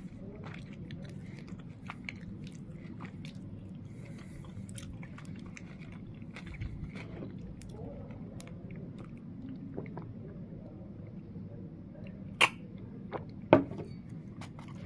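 A person chewing a mouthful of wrap filled with bread, beef sticks, carrots and onions, with many small clicks as they chew. Two loud sharp clicks come near the end.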